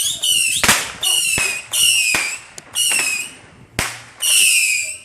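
Consumer fireworks going off in quick succession: about five shrill whistles, each falling slightly in pitch and lasting about half a second, alternate with sharp bangs roughly every second.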